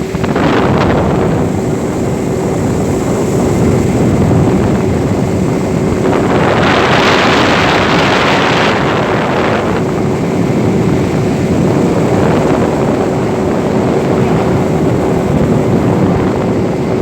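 Boat engine running steadily, with wind buffeting the microphone; the wind rushes louder for a few seconds in the middle.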